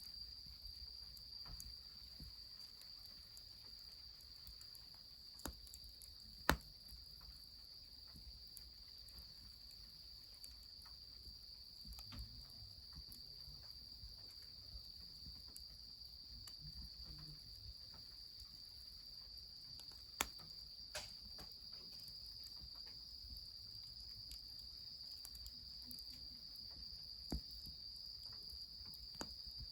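Steady high-pitched insect chorus with a few sharp pops scattered over it, the loudest about six seconds and twenty seconds in.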